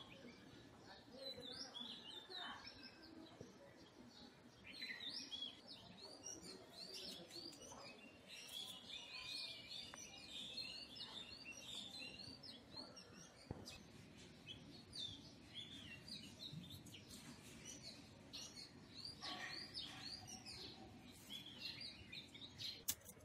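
Small birds chirping and twittering, many short calls overlapping, faint. A couple of sharp clicks near the end.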